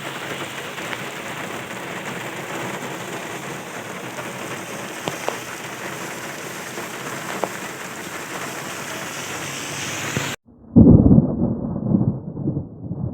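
Steady heavy rain hiss with a few faint ticks of drops. About ten seconds in it cuts off abruptly, and a low, uneven rumble, loud at first, follows.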